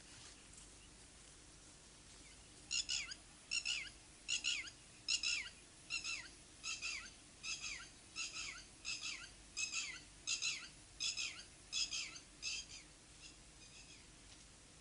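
A bird calling a long series of short notes that slide downward, about one and a half calls a second, starting about three seconds in and fading out near the end.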